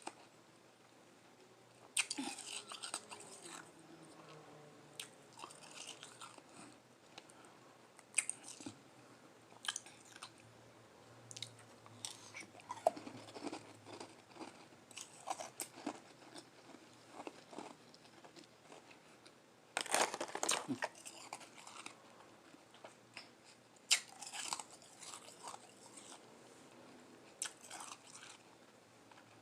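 Close-up chewing of lime-flavoured Igloo ice: irregular bites and soft crunches of ice between the teeth, with the loudest clusters a couple of seconds in and about two-thirds of the way through.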